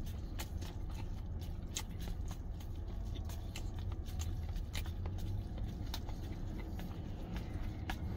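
Close-up eating sounds: chewing with many small wet mouth clicks, and wooden chopsticks working noodles in a paper cup, over a steady low hum.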